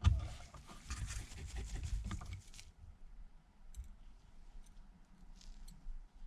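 Small parts and hand tools handled on a workbench: a sharp knock at the start, about two and a half seconds of dense clicking and scratching, then only scattered light ticks.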